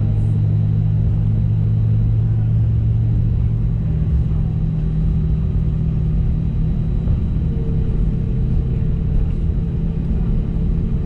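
Steady low rumble inside the cabin of an Airbus A320neo taxiing, from its CFM LEAP-1A engines at taxi power and the wheels rolling on the taxiway. The low hum eases a little about four seconds in, and a fainter steady tone joins after about seven seconds.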